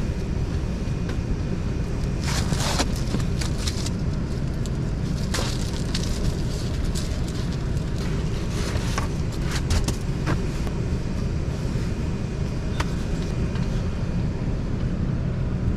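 Minivan engine idling steadily to warm up on a cold start, a low even rumble heard inside the cabin. Sleeping-bag nylon and bedding rustle and click as they are moved about, the loudest between two and three seconds in.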